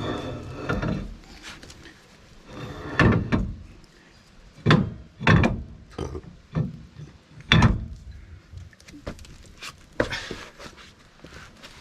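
A series of separate knocks and clunks, about half a dozen, with handling noise between them: metal parts and tools being set down and fitted while a rear wheel hub and drum brake are reassembled.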